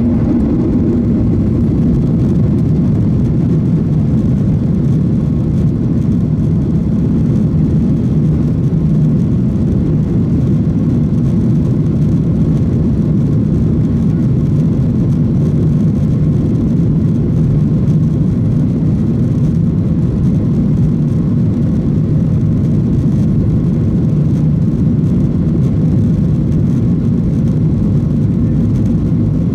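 Cabin noise inside a Boeing 737-900ER: the steady low rumble of its CFM56-7B jet engines and the airflow, holding an even level throughout.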